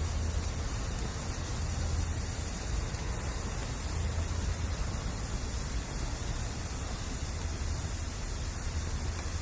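Bamboo campfire burning with a steady hiss and a low rumble, the hiss typical of moisture steaming out of the bamboo as it burns.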